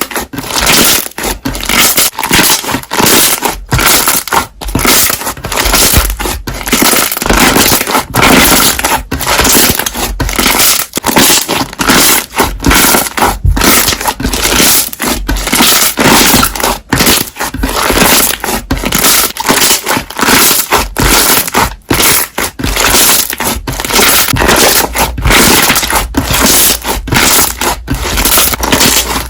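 Slime being pressed and squeezed by hand, popping the trapped air bubbles in a dense, continuous run of sharp pops and crackles.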